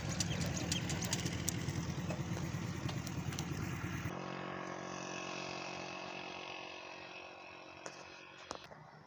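A Crown HD Plus 70cc motorcycle's single-cylinder engine running, mixed with rough wind and road noise. About four seconds in, the sound changes abruptly to a steadier engine hum that fades away.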